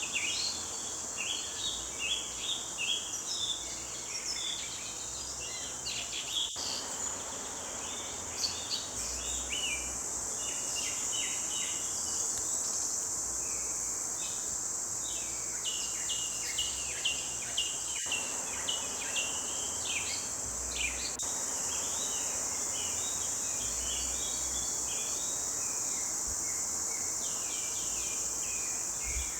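Several songbirds singing in a dawn forest chorus of short, quick chirps and trills, over a steady high-pitched insect drone that grows louder about two-thirds of the way in.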